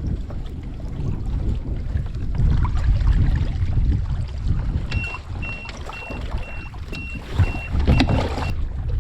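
Wind buffeting the microphone and water slapping around a kayak on choppy sea. About five seconds in, a high electronic beep starts repeating about twice a second and runs for roughly three and a half seconds.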